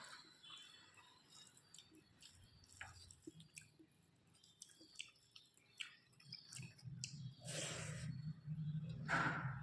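Close-miked chewing with small wet, squishy mouth clicks as someone eats rice and curry with fish and greens. Two louder rushing sounds come near the end, over a low steady hum.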